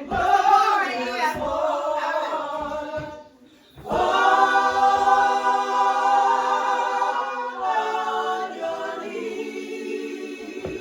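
Voices singing without instruments. After a short break, long notes are held from about four seconds in, with a step down to a lower held note near the end.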